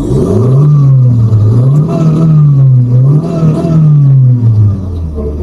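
Car engine revving up and down in waves, heard from inside the cabin. Its pitch climbs and drops about three times, then falls back to a lower, steadier note near the end.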